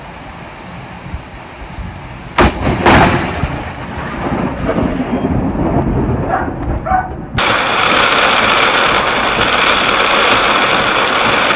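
Thunder from a close lightning strike: two sharp cracks about half a second apart, a couple of seconds in, then a rolling rumble. About halfway through, the sound switches suddenly to a steady loud hiss.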